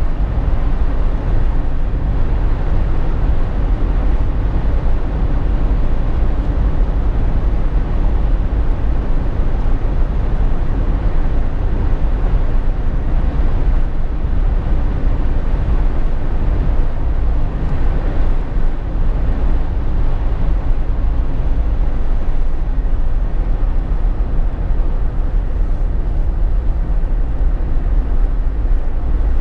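Steady driving noise inside the cabin of a Jeep Wrangler JK: tyre and road noise with a low, even engine drone that holds constant throughout.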